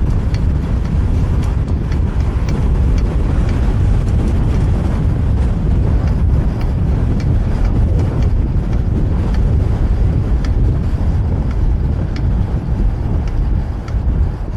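Wind rushing over a bike-mounted camera microphone while riding, a steady low rumble, mixed with passing street traffic.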